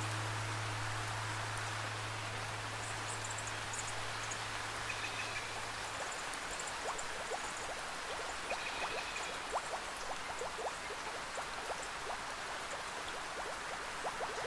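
Steady rainforest rain with water drops plinking, the drips growing frequent from about halfway through. A low held instrument tone fades out about six seconds in, and faint high chirps sound over the rain.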